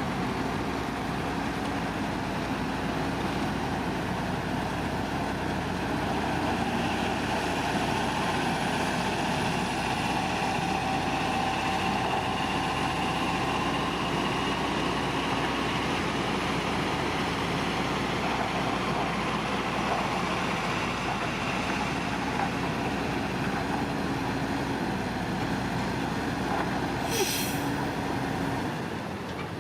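Heavy diesel engine of earthmoving machinery running steadily, with a steady whine over its drone. A single sharp click comes near the end, and the level drops just after it.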